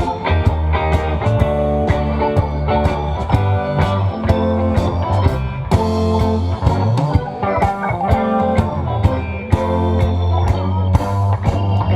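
Live rock band playing an instrumental jam with no vocals: guitar over a steady bass line and drums, in a blues-rock style.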